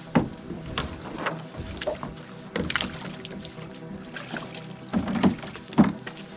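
Canoe paddle strokes splashing and pulling through the water, several in the first few seconds and two more, louder ones near the end, over background music with sustained notes.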